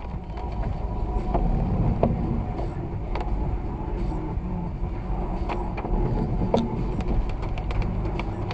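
A car driving, heard from the dashcam inside it: a steady low road and engine rumble, with a few short sharp clicks scattered through.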